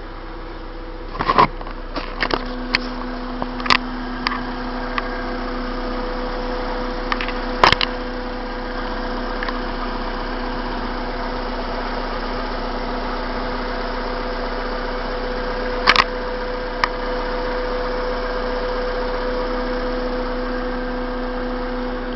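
Hyundai Tiburon's four-cylinder engine idling steadily through a freshly fitted 4-into-1 header, which the owner finds free of leaks; the idle settles a little lower about two seconds in. Sharp clicks and knocks break in now and then, most in the first few seconds.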